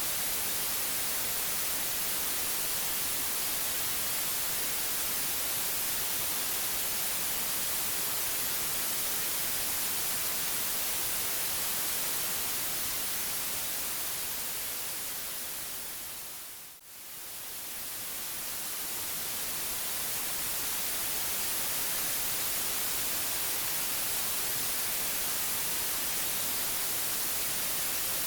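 Steady white noise, an even hiss across the whole range. It fades down gradually to a brief dip about seventeen seconds in, then swells back to full level.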